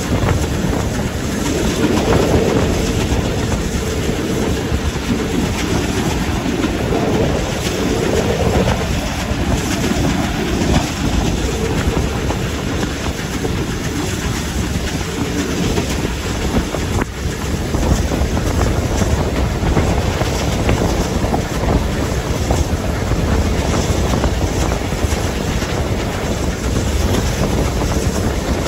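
Steam-hauled heritage train running along the line behind BR Standard Class 5 locomotive No. 73082 Camelot, heard from on board: a steady, continuous rumble of wheels on the track.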